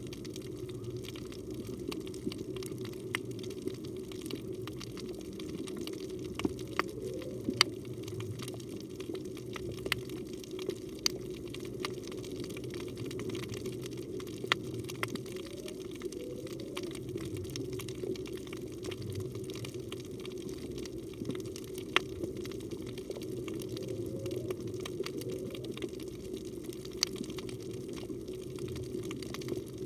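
Underwater reef ambience: a steady low rush of moving water with scattered sharp clicks. Three times, about nine seconds apart, faint short rising calls come through, the song of humpback whales, which visit these waters at this season.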